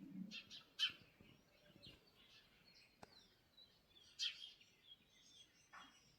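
Small birds chirping and calling in the early-morning chorus, faint, with short scattered notes and two louder sharp calls, about a second in and about four seconds in.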